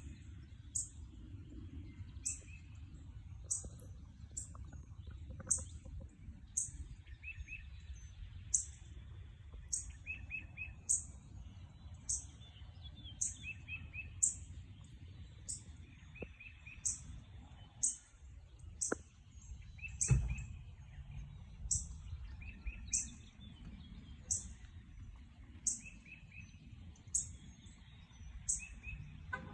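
Birds calling: a high, thin chirp repeated one or two times a second, with a lower short trilled call every few seconds, over a steady low background rumble. A brief thump about two-thirds of the way through.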